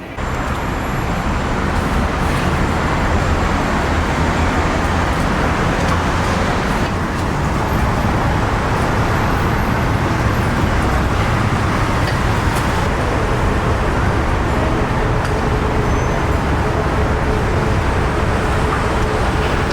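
Steady noise of busy road traffic, the rumble and hiss of passing vehicles at an even level.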